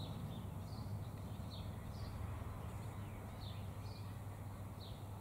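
Small bird giving short, high chirps that slide downward, repeated every half-second to second, over a steady low hum.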